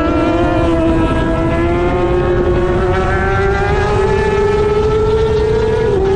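Middleweight superbike engine running hard at high revs, its pitch climbing steadily as the bike accelerates, with a brief dip just before the end. A rushing noise runs underneath.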